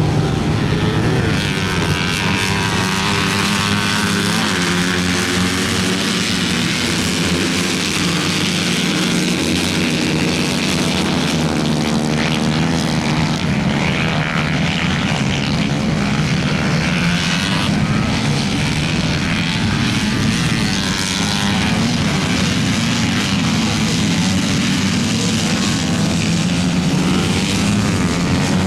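Small 125 cc engine running continuously, its speed wavering slightly now and then.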